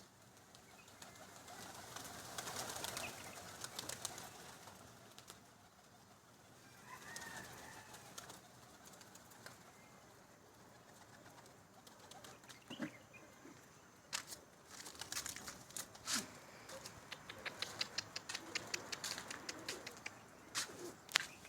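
Pigeons moving about, with quick bursts of wing flapping and rustling that grow busier in the second half.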